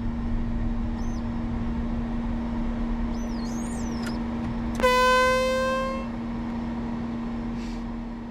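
Steady hum in the cockpit of a Learjet 60XR standing still on the taxiway. About five seconds in, a single horn blast sounds for about a second, its pitch rising slightly.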